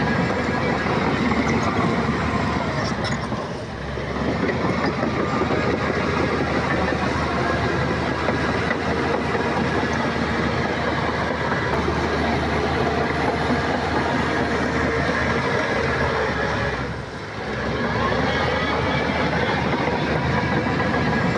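Heavy diesel earthmoving machinery running steadily under load, with two brief dips in level about four and seventeen seconds in.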